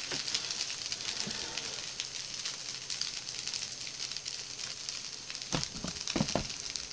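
Spicy fried rice sizzling in a frying pan on a portable gas burner: a steady high hiss with fine crackles. A few knocks come near the end.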